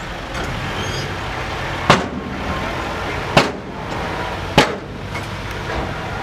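Six-wheel dump truck engine running steadily, with three sharp bangs spread over a few seconds.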